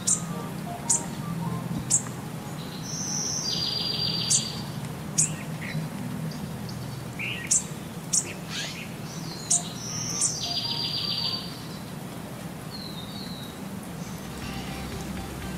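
Birds chirping: sharp high chirps roughly once a second, mixed with rapid buzzy trills, over a low steady hum.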